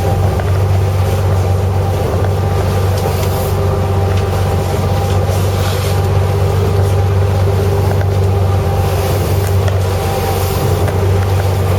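Fishing boat's engine running at a steady speed, a constant low drone with the rush of water and wind over it.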